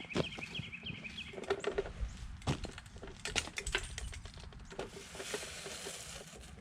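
Irregular crunches and sharp cracks, like footsteps breaking through ice-crusted ground, with a brief high chattering sound in the first second or so.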